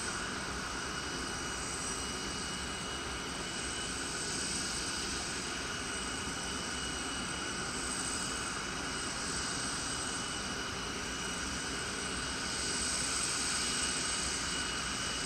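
Jet airliner engines running steadily, a continuous rushing noise with a high-pitched whine held on one pitch, swelling slightly near the end.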